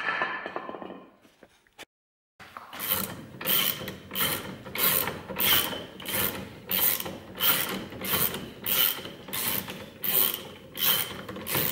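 Hand ratchet turning the threaded spindle of a coil-spring compressor on a car's front strut, easing off the spring tension. It makes a rhythmic rasping click on each stroke, about one and a half strokes a second, after a brief gap about two seconds in.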